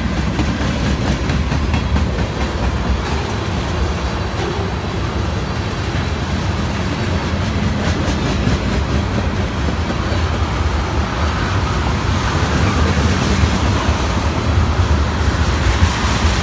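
Freight train's cars rolling past at close range: a steady, loud rumble of steel wheels on the rails, growing a little louder and hissier in the last few seconds.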